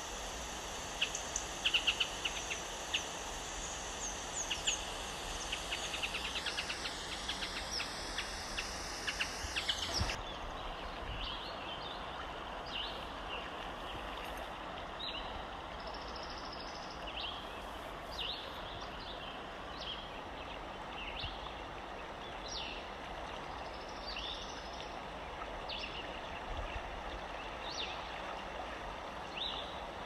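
Birds chirping in quick, dense runs over a steady hiss. About ten seconds in, the sound cuts abruptly to a quieter background with short, scattered bird calls every second or so.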